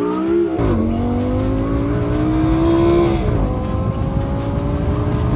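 Lamborghini Gallardo's V10 engine accelerating hard through the gears: the pitch climbs, drops sharply at an upshift about half a second in, climbs again, and drops at a second upshift a little past three seconds before pulling on.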